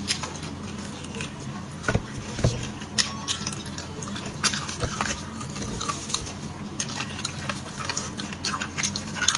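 Close-miked eating sounds: chewing and sucking beef bone marrow, with many short wet mouth clicks and smacks.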